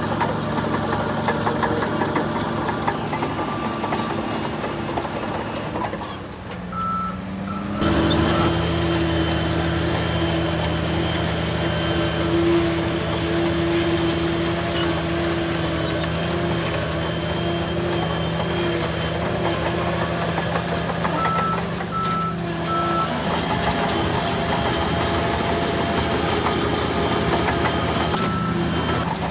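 Heavy diesel earthmoving machine, a bulldozer, running steadily under load, with a reversing alarm giving short high beeps in runs of about three, once about seven seconds in and again around twenty-two seconds. Around six seconds in the engine drops off briefly, then its pitch rises as it picks up again.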